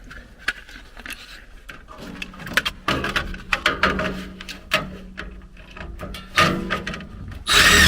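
Irregular clicks, knocks and rattles of wire connectors and plastic parts being handled at a furnace control board, with a louder scraping rustle near the end.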